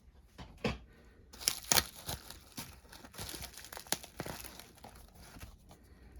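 Packaging being crinkled and torn open by hand: a run of sharp crackles and clicks, loudest about a second and a half in, tailing off near the end.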